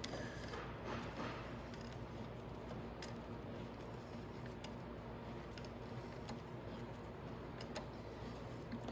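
A few short metallic clicks and clinks of small parts and tools being handled during motorcycle assembly, over a steady low workshop hum.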